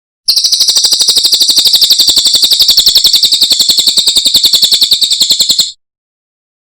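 Cililin songbird giving one long, fast, even trill of about five seconds, many notes a second, high-pitched, stopping abruptly.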